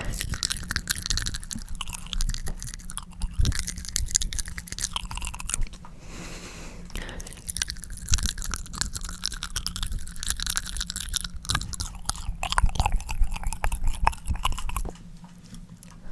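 Close-miked ASMR tongue smearing: wet, sticky mouth sounds, a dense run of small clicks and smacks, with a short break about six seconds in.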